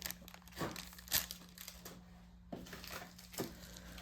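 Plastic packaging crinkling and rustling in short handled bursts, with a brief lull near the middle.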